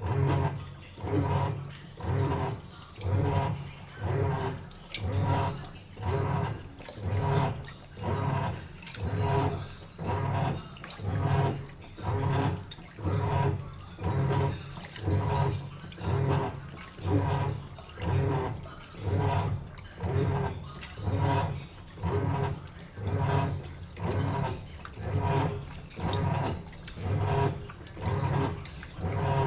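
Sharp washing machine in its wash cycle, the motor churning water in an even rhythm of about one surge a second. It starts abruptly.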